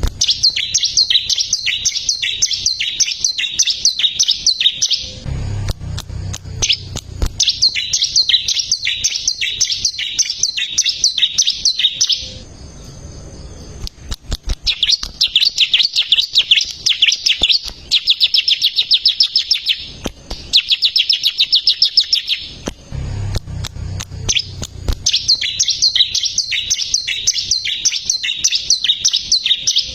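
Bar-winged prinia (ciblek) singing long phrases of fast, evenly repeated high chirps, with a short break about halfway through.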